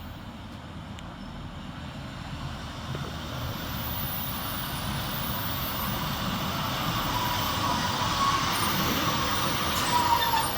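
A diesel multiple-unit passenger train approaching and running into the platform, growing steadily louder, with a brake squeal from the wheels near the end as it slows.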